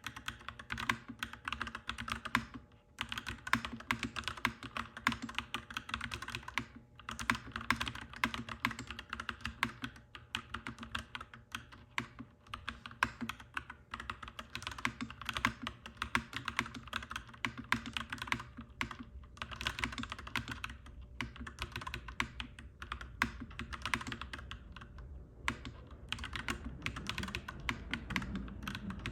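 Clacky mechanical keyboard being typed on continuously: rapid key clicks, with a couple of brief pauses in the first seven seconds.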